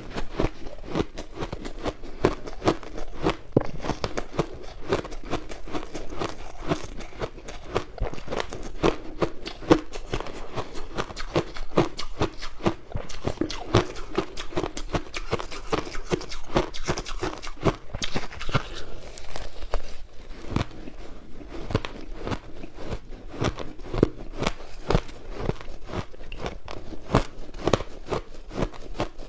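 Crushed ice being bitten and chewed close to the microphone: a steady stream of crisp crunches and cracks, several a second, without a break.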